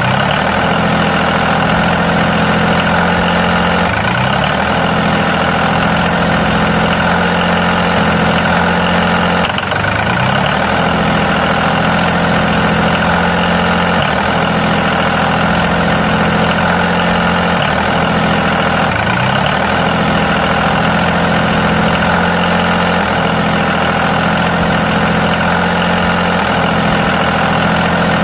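Small tractor engine running steadily at idle, with a brief rise in pitch about every three seconds.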